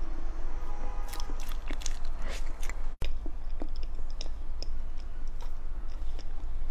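Close-miked chewing of a mouthful of soft matcha mille crêpe cake, with small mouth clicks over a steady low hum. The sound cuts out for an instant about three seconds in.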